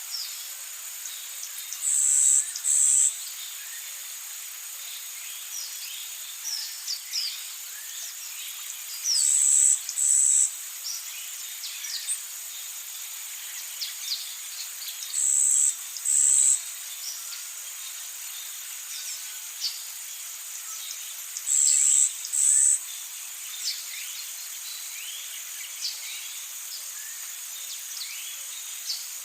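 Amazon rainforest ambience: a steady high-pitched insect drone with many short bird chirps, and a loud high call in two parts that repeats about every six to seven seconds, four times.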